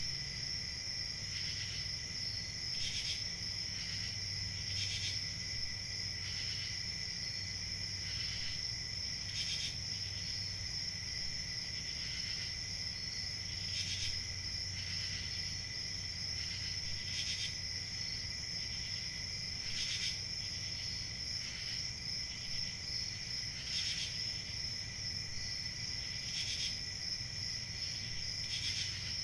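Crickets chirping in a steady, continuous chorus, with single louder chirps standing out every second or two over a low background hum.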